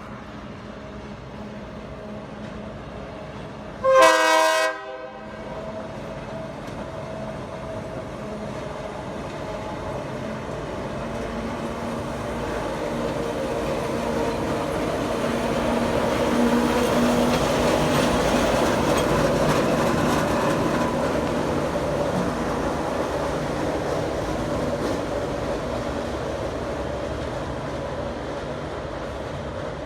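GE 44-ton diesel switcher sounding one short horn blast about four seconds in, then running past: the engine and the wheels on the rails grow louder to a peak midway and fade away.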